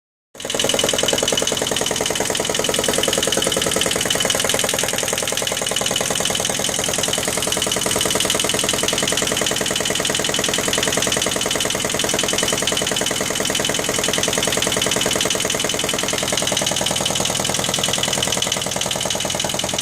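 Yanmar 8YSM single-cylinder marine diesel engine running steadily on a test run after repair, with a fast, even beat.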